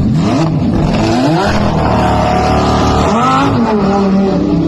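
A high-performance car engine revving hard, its pitch climbing and falling several times as it accelerates, over road and tyre noise.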